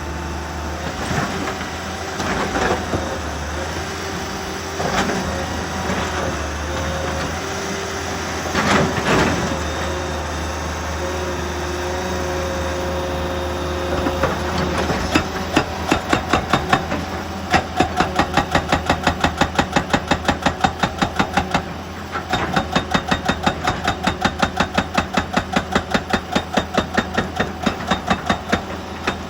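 Excavator's diesel engine running with steady whining tones, then from about halfway a rapid, even hammering at about four blows a second that stops briefly and starts again.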